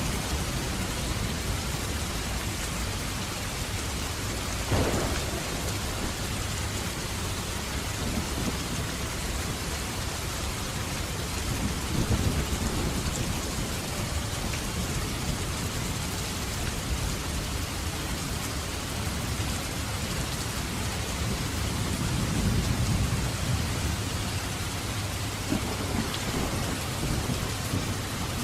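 Steady heavy rain with thunder: a sharp crack about five seconds in, then low rolling rumbles twice later on.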